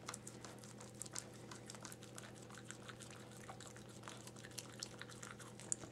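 Faint, scattered wet clicks and smacks from the Bichon Frise mother and her nursing newborn puppies, over a steady low hum.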